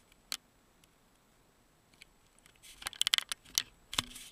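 Handling noise from a toy package being picked up and moved: a single click early, then a burst of clicks and crinkly rustles from about two and a half seconds in, ending with a sharp knock.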